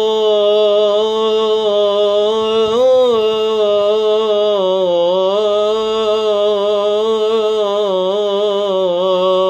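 A male nasheed singer holding one long wordless note with a slow vibrato. The pitch rises slightly about three seconds in and dips around five seconds, then the note cuts off just after the end.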